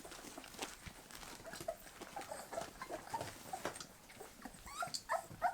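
Bull terrier puppies being weaned, eating soft puppy food: a scatter of small wet smacking and clicking mouth sounds with brief high squeaks and whimpers.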